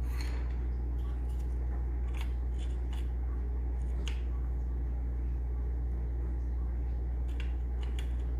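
Pencil scratching on paper in short, separate strokes, over a steady low hum.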